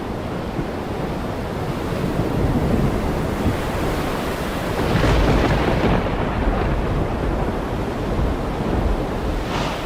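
Heavy rain pouring steadily, with a deep low rumble underneath that swells louder about five seconds in.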